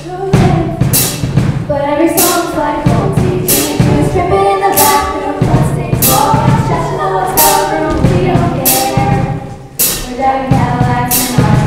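Show choir singing together over an upbeat accompaniment with bass and a steady percussive beat.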